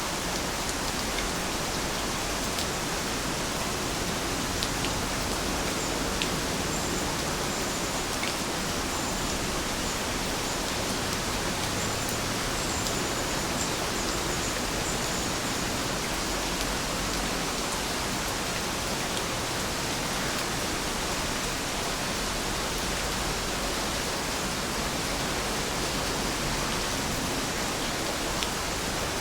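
Steady rain falling, an even hiss, with now and then a single drop ticking close by.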